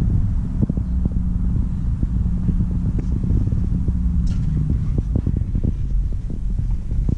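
2013 Audi Q7's supercharged 3.0-litre V6 idling steadily, a low even rumble, with scattered light knocks and bumps.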